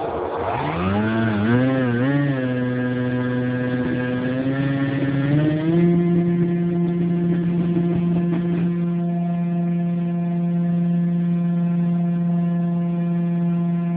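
RC model airplane's motor spinning up, revving up and down in a few quick blips, then running at a steady speed before stepping up to a higher steady speed about six seconds in.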